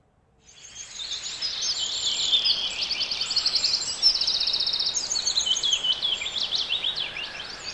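Several birds singing together, many short chirps and rapid trills, over a faint outdoor background hiss; the sound fades in about half a second in.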